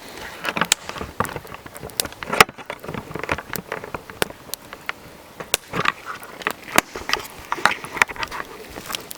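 Campfire of damp firewood burning, with irregular sharp crackles and pops from the wood.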